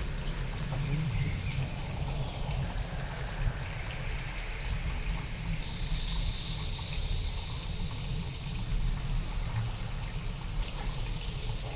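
Steady rain with trickling water over a deep, continuous low rumble, from a real storm recording processed to sound alien. A faint high steady tone joins about halfway through and fades a couple of seconds later.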